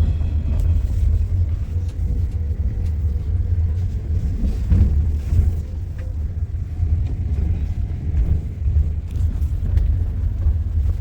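A car or truck on the move: a steady low rumble of engine and road noise.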